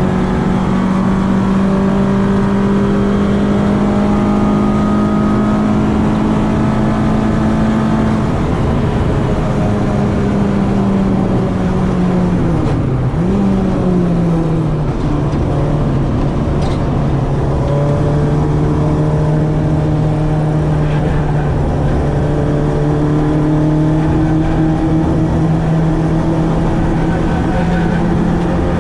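Citroen AX's 8-valve four-cylinder engine, breathing through twin Weber 40 carburettors, running hard at high revs on track. The pitch holds steady at first, drops and wavers around the middle, then settles lower and climbs again near the end.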